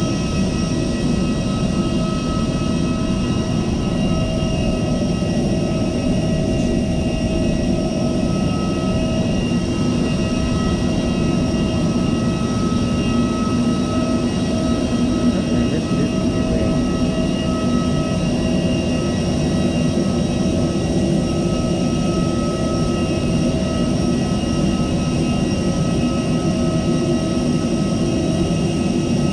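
Steady drone inside a parked Airbus A320 cabin during boarding: ventilation rush with several constant whining tones, from the aircraft's air supply and ground power.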